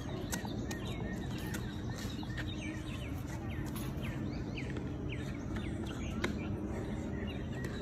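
Birds chirping: a run of short notes, each sliding downward, repeated a few times a second, over steady low outdoor background noise with a few sharp clicks.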